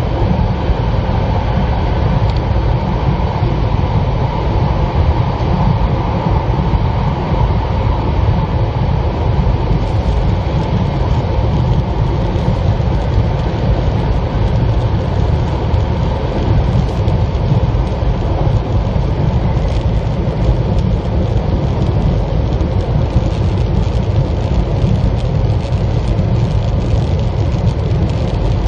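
Steady, loud rumble of a 700 series Shinkansen heard from inside the passenger cabin while the train runs through a tunnel, with a faint steady hum above the rumble.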